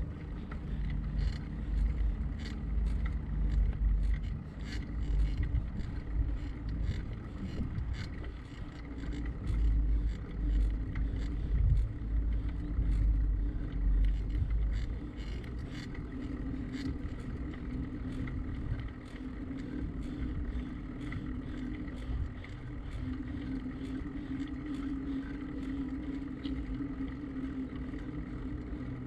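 Bicycle riding along with wind buffeting the microphone and road rumble, gusting strongly in the first half and steadier after, with many scattered small clicks and rattles.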